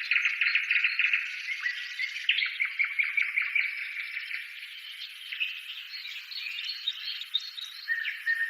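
A chorus of small birds chirping, trilling and whistling over one another, thin-sounding with no low end at all.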